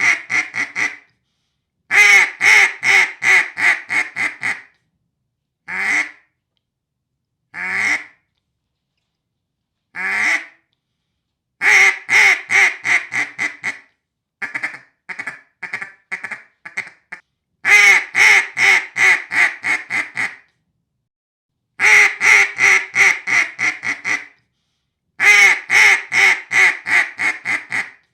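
Hand-made, lathe-turned Poddy Bay Custom duck call from the Classic Black Duck series, blown in runs of seven or eight loud quacks that trail off in loudness. Single quacks come between the runs, and a quieter, quicker string of short notes sounds about halfway through.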